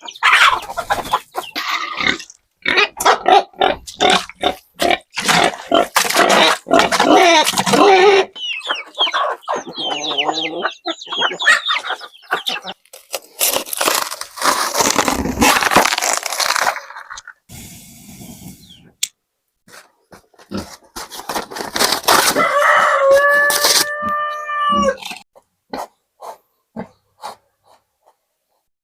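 Farmyard chickens clucking, with a rooster crowing about three quarters of the way through: one pitched call held and then falling away. A dense run of short, sharp sounds fills the first several seconds.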